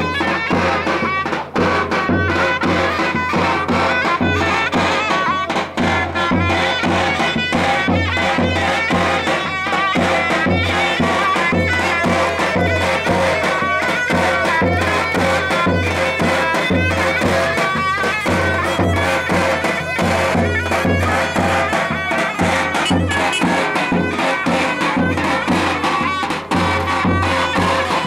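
Davul and zurna playing traditional folk music: a loud wind-instrument melody over a steady beat of the bass drum.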